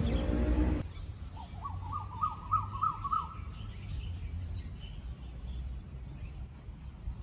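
A bird calling: a quick run of about eight repeated chirps, each rising slightly, lasting about two seconds, with fainter higher calls afterwards, over a steady low rumble. A louder low-pitched noise cuts off about a second in.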